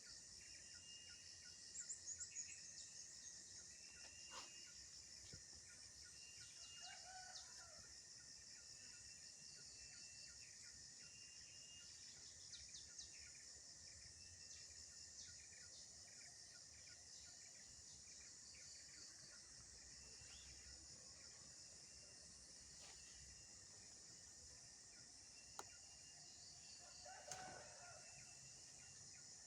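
Faint steady chirring of crickets and other night insects, with a rooster crowing faintly twice, about seven seconds in and again near the end.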